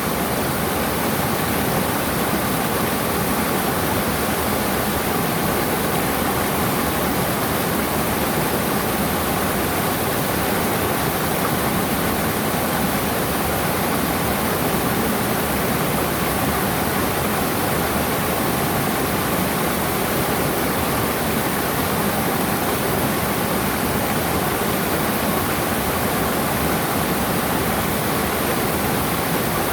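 Running water, a steady, even rush with no change or break.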